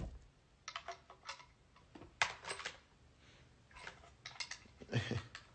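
Clicks and rattles of a BB gun's parts being handled and worked at, in several short clusters.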